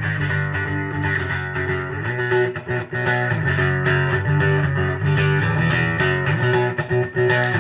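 Instrumental guitar music with bass: plucked and strummed guitar notes over a steady bass line, with a brief drop-out about two and a half seconds in.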